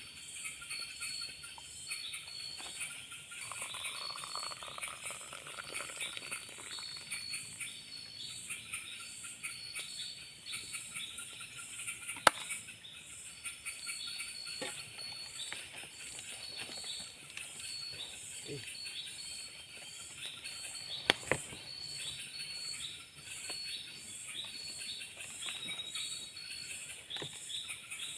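Forest ambience of insects chirping in dense, evenly repeating high pulses, with bird calls, one rising call a few seconds in. Two sharp clicks or knocks stand out, about 12 seconds and about 21 seconds in, the louder being the first.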